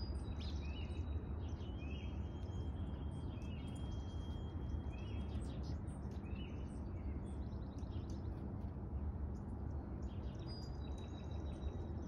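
Small songbirds chirping and calling: a run of short, repeated chirps and a few thin, high whistled notes, over a steady low background rumble.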